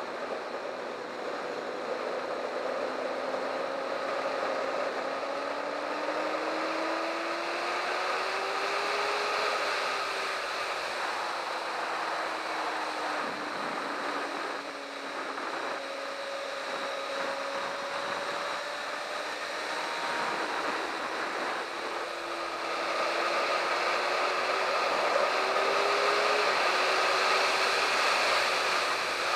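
Sport motorcycle's engine running at speed, its pitch slowly climbing and falling as the rider opens and closes the throttle, over steady wind rush on the microphone. It grows louder in the last few seconds.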